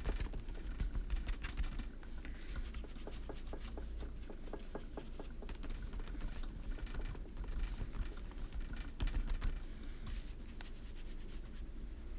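Quick, scratchy strokes and light taps of a colouring tool on paper, irregular and repeated, over a steady low hum.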